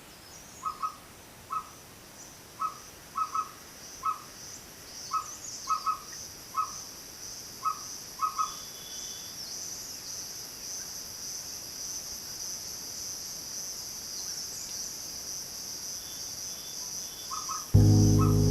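A small owl hooting in short single and paired notes, repeated every second or so, over a steady high chorus of insects at dusk. Near the end a loud, low, sustained music tone comes in.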